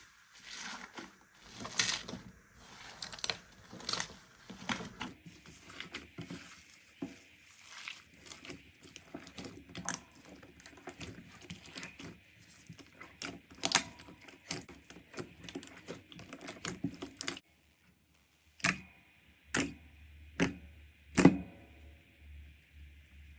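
Slime being squeezed and pressed by hand, making a fast run of crackly clicks and pops. After a short break about three-quarters of the way in, four separate louder pops follow.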